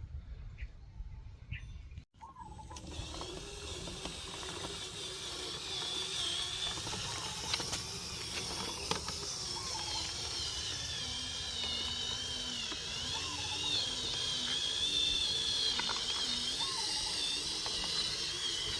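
Small electric motor and gearbox of an RC dump truck whining steadily, its pitch wavering as the load changes, starting about two seconds in.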